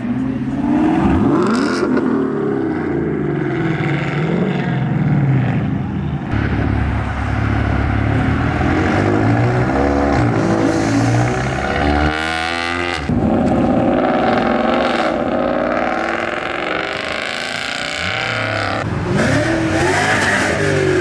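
Car engines revving and accelerating as cars pull out one after another, their pitch rising and falling as they pass. There is a brief break about twelve seconds in, between one car and the next.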